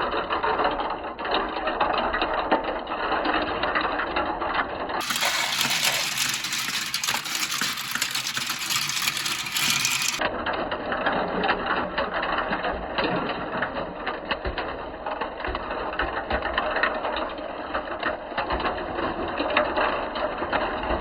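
Many marbles rolling and clattering down a marble run, a dense, continuous rattle of rapid clicks. The sound changes suddenly about five seconds in and changes back about ten seconds in.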